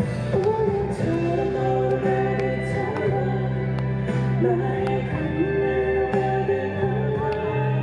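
A live pop band playing. A wavering melody line rides over sustained bass notes that change about every second, with light drum ticks underneath.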